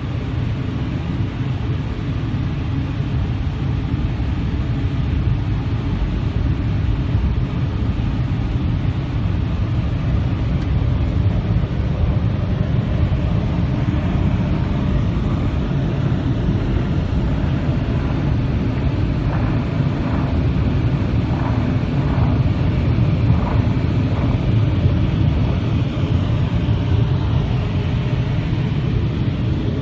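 Futura Revolution touch-free car wash working over the car, heard from inside the car: a loud, steady rumble.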